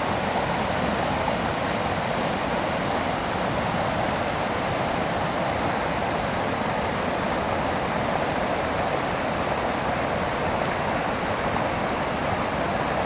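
A small waterfall and fast-flowing stream rushing steadily, a constant, even splashing of water.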